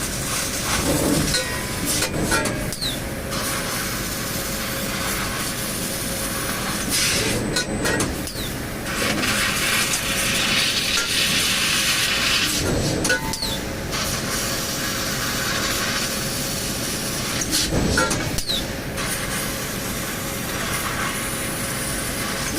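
CNC machine running: a steady mechanical din with a faint constant tone under it, and a hiss that swells and fades several times.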